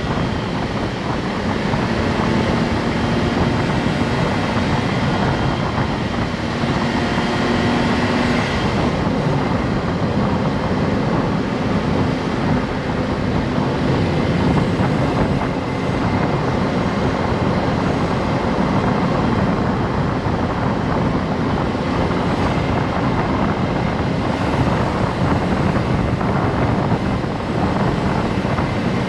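Honda S660's mid-mounted turbocharged three-cylinder engine running under way, with steady road and wind noise from the moving car; the engine note shifts slightly about eight seconds in.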